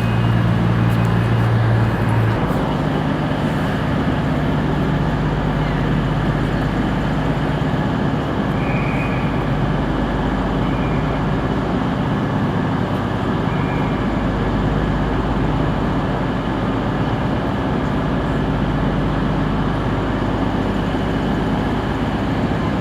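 Train engine running at a station platform: a steady rumble with a low hum, and a deeper tone that cuts off about two seconds in.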